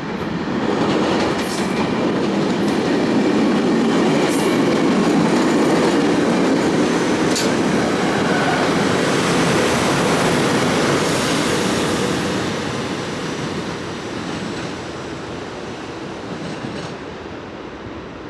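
A passenger train passing on the rails. The rumble of its wheels builds over the first second, holds for about eleven seconds with a few sharp clicks, then fades away.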